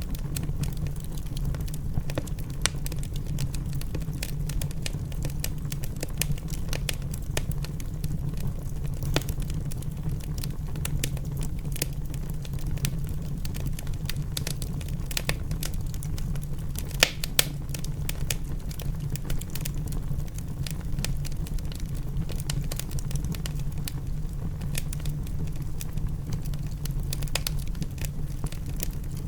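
Wood fire in a fireplace crackling, with irregular sharp pops and snaps over a steady low rumble of flames and rain.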